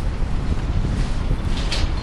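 Coal train hopper cars rolling slowly around a curve, a low steady rumble, with wind buffeting the microphone. A brief high hiss rises near the end.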